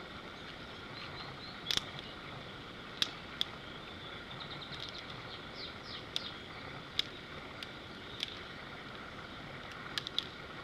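Dry twigs snapping sharply, one break at a time, about eight snaps spread irregularly, as a small branch is broken into kindling of graded thickness. A steady outdoor background lies under them, with a few faint high chirps near the middle.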